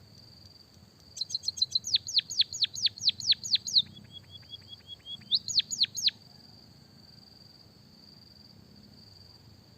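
Songbird singing one rapid phrase: quick short notes, then a run of steep downward-sweeping whistles at about four a second, a string of short even notes, and three final sweeps. It sounds over a steady high-pitched insect-like buzz.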